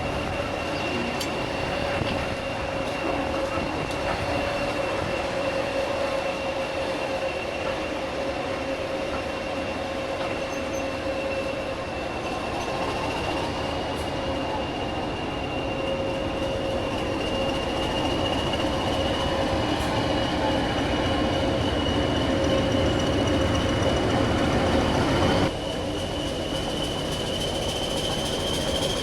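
Heritage railway train running on the rails, with steady running noise and two held tones, one of them high-pitched and rising a little near the end. The sound drops suddenly about 25 seconds in.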